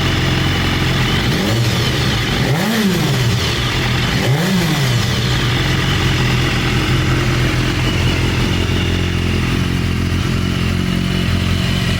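2013 BMW S1000RR's inline-four engine idling through an Akrapovic slip-on exhaust. The throttle is blipped twice, about three and four and a half seconds in, and each rev rises and drops quickly back to a steady idle.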